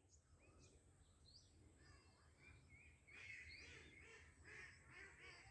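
Faint bird calls: many short chirps and calls, growing busier from about three seconds in, over a low rumble.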